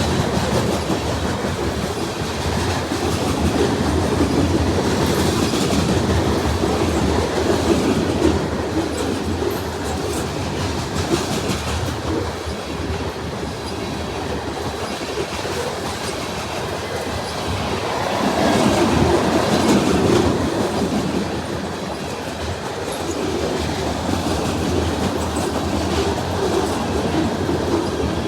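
Freight train cars rolling past at speed: a steady heavy rumble with the clickety-clack of wheels over rail joints, swelling louder twice.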